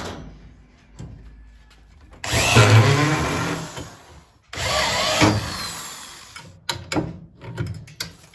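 Electric drill running in two bursts of about two seconds each, then a few short clicks.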